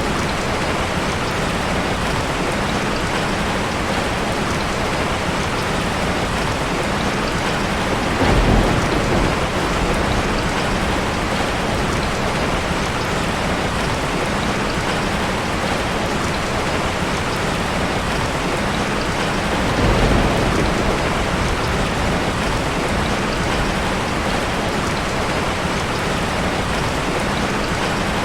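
Heavy rain falling in a steady, dense hiss, with two short low swells, one about a third of the way in and one about two-thirds in.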